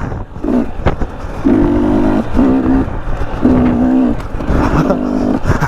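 KTM 300 XC two-stroke dirt bike engine pulling on and off the throttle on rough single track. The pitch holds steady for short spells, about a second and a half in and again near four seconds, then rises and falls in between, over a steady low rumble.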